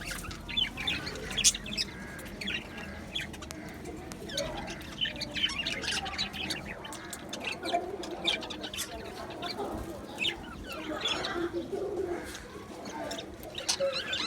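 A colony of budgerigars chirping and warbling together, many birds calling at once with frequent short, high chirps and a few sharper calls.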